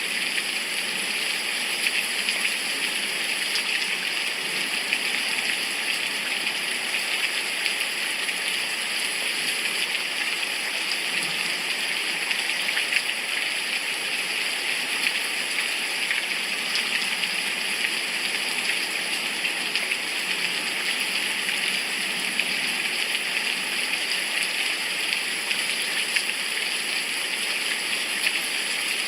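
Heavy rain falling steadily, an even downpour that does not let up.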